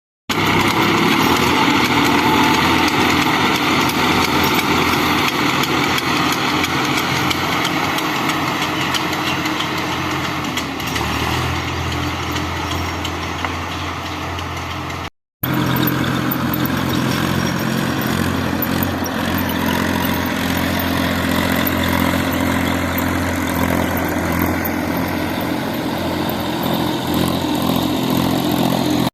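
Tractor engine running steadily with a deep hum. Its note shifts slightly about a third of the way in. A brief gap of silence falls about halfway through, then the engine runs on.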